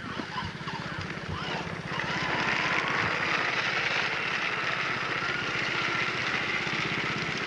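Small engine running steadily, getting louder about two seconds in.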